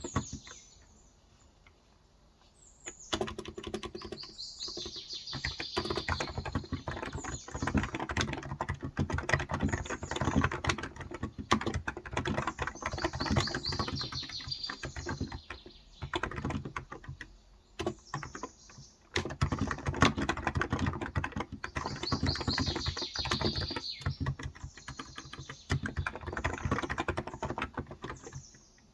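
Continuous typing on a Cox Endeavor electrostatic-capacitive (35 g, tenkeyless) keyboard, a steady patter of keystrokes with a pause of about two seconds near the start and a short break past the middle. Birds chirp in the background in three bouts.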